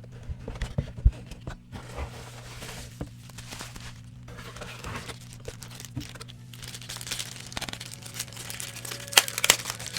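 Packaging being unwrapped by hand: plastic wrapping and paper crinkling and tearing, with scattered clicks and a few sharper snaps near the end, over a steady low hum.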